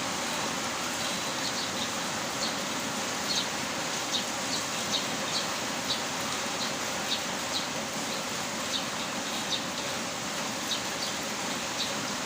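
Steady heavy rain, with short high chirps from a small creature repeating irregularly about twice a second over it.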